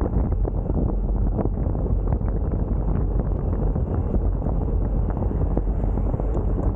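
Wind buffeting the microphone: a steady, low rumbling noise with no break.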